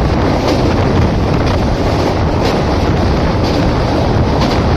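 Passenger train running at speed, heard at an open window as it crosses a steel truss bridge: a loud, steady rumble of wheels on rails with wind rushing over the microphone and a few faint clacks.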